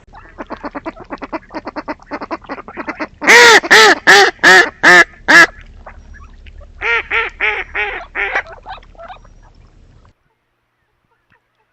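Drake mallard calling with its softer, raspy call. First comes a quick run of soft calls, then a burst of about six loud quacks, and after a short pause a second series of about seven quacks.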